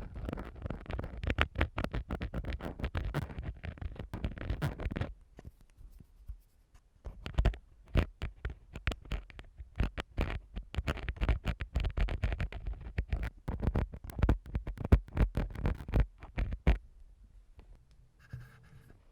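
Ear-cleaning tool scraping and rubbing against a microphone in ASMR ear cleaning: dense runs of quick scratchy strokes and clicks, pausing briefly about five seconds in, resuming, then stopping about three seconds before the end.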